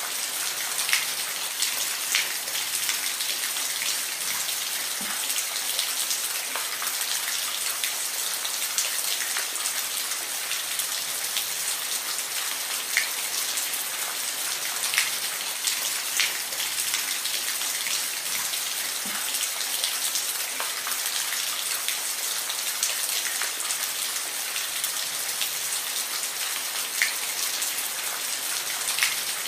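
Steady rain falling: an even hiss of rain with scattered sharper drops ticking on a surface.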